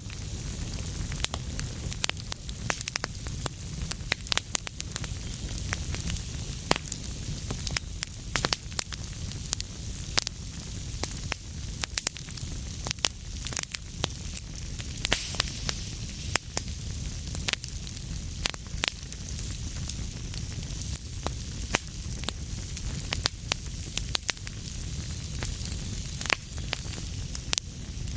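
Wood fire burning in a fireplace: a steady low rumble and hiss of flames with frequent sharp, irregular crackles and pops.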